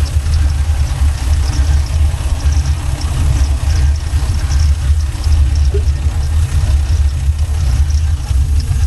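A 6.0-litre V8 car engine running steadily at an even idle, its sound mostly low and deep.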